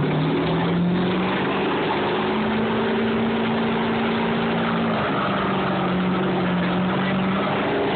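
A vehicle's engine held at raised revs. Its pitch climbs over the first couple of seconds, holds steady, then drops a little about five seconds in and holds again.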